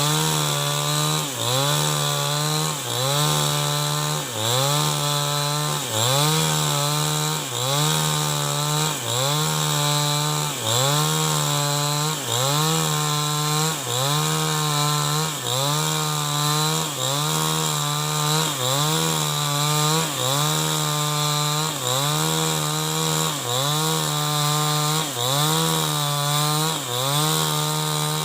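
New West 788 two-stroke chainsaw running at full throttle while ripping lengthwise through a log. The engine note dips and recovers in a steady rhythm, about three times every four seconds, as the chain loads up in the cut.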